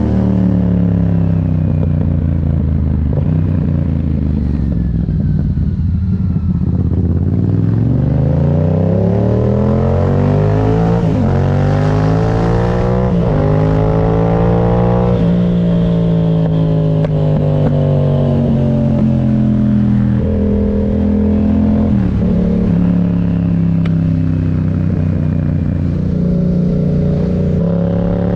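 Yamaha MT-07's 689 cc parallel-twin engine under way: the revs fall away at first, then climb through three quick upshifts, each a short break and drop in pitch, before settling to a steady cruise with a brief dip in revs about two-thirds through.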